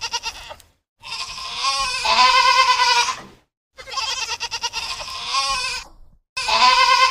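Goat bleating: a series of about four long, quavering calls, each a second or two long, with short pauses between them.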